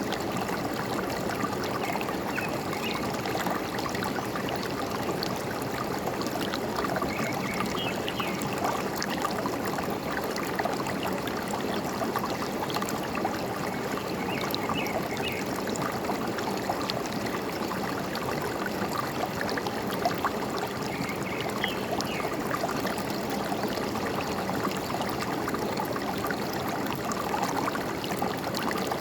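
Forest stream running and trickling steadily, with faint bird chirps now and then.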